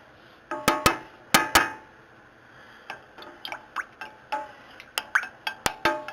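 Metal spoon clinking against a pot while soup is stirred: a run of sharp ringing clinks, the loudest few close together early, then lighter, quicker ones.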